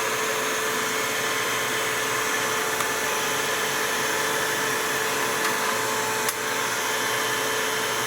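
Silvercrest SHSA 20-Li A1 cordless vacuum cleaner with its brushed motor running steadily, the motorized rotating brush attachment fitted: a steady whine over a rushing air hiss, with a brief click about six seconds in.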